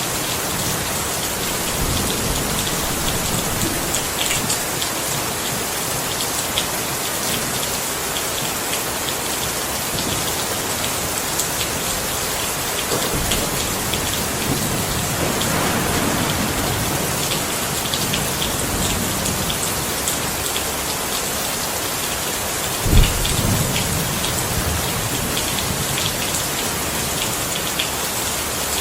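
Steady rain falling on a surface, with scattered sharp drop ticks. A low rumble of thunder swells about halfway through, and a short, sharper low boom about two-thirds of the way in is the loudest moment.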